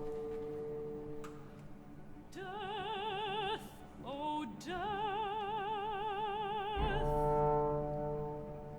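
Operatic soprano singing a wordless, wide-vibrato line over the chamber ensemble. It enters about two seconds in over held instrumental notes, slides up to a higher held note after a brief break, and gives way near the end to a sustained ensemble chord with a low bass note.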